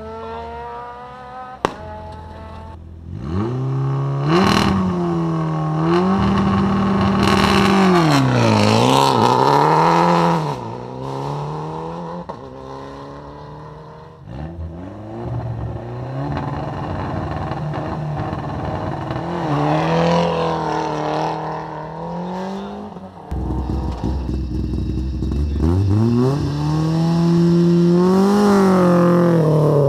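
Rally car engine being revved over and over, its pitch rising and falling, with a sharp crack about two seconds in. About three quarters through it drops to a lower, steadier running before revving up again.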